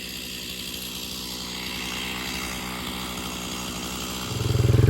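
Small gasoline engine running steadily at low speed; near the end a much louder engine sound rises sharply and runs on with a low, pulsing beat.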